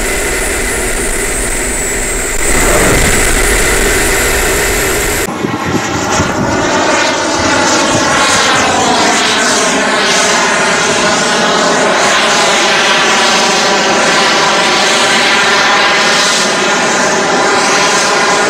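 Twin KingTech K-235 turbine engines of a large RC jet model running, with a high thin whine over the roar. About five seconds in the sound changes abruptly, and from then on the roar wavers and sweeps up and down in pitch as the jet flies past.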